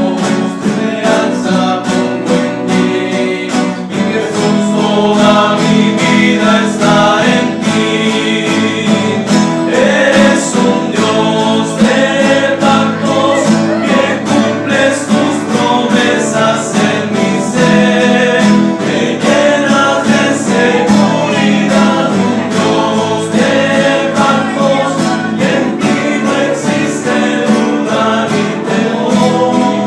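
A men's rondalla, male voices singing a worship song together in harmony over strummed and plucked guitars, playing steadily without a break.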